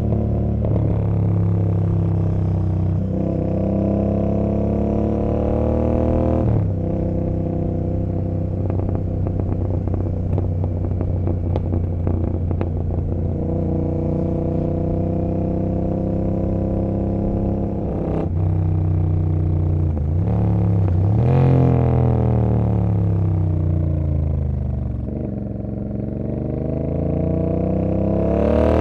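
Royal Enfield Continental GT 650 parallel-twin exhaust through an Emgo cafe muffler, ridden under way. It revs up with a gear change about six seconds in, then runs steadily with a patter of crackles. Later it falls and rises again twice as the throttle is closed and reopened, climbing near the end.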